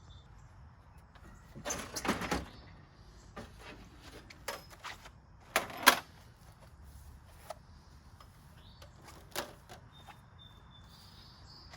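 Scattered knocks and clunks with a short scraping rustle near the start, the sounds of a heavy espresso machine being handled and lifted out of a car.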